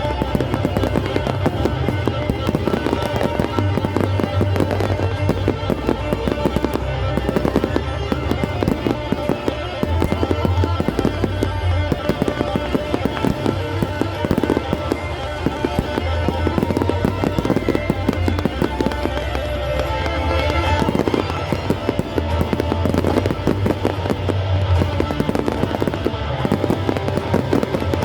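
Fireworks going off in rapid succession, many bangs and crackles close together, over a music soundtrack with a pulsing bass.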